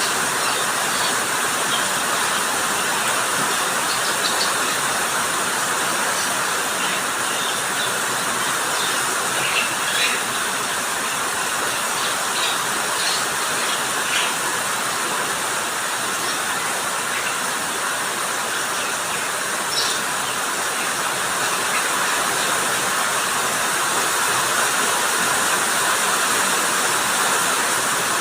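Steady rain, an even unbroken hiss, with a few faint brief ticks of drops now and then.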